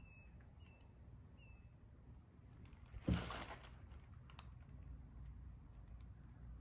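Faint background with a small bird giving three short, falling chirps in the first second and a half. A brief rustling noise comes about three seconds in.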